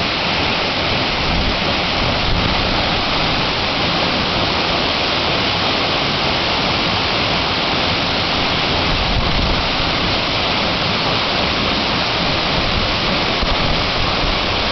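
Waterfall: a steady, loud rush of falling and splashing water that does not change.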